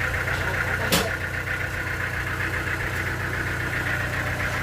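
Engine idling steadily, with one sharp knock about a second in.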